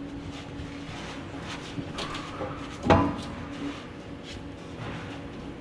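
Metal clunks and scraping as a Jeep Wrangler JKU's muffler is twisted and wiggled off its exhaust pipe, with one louder knock about three seconds in.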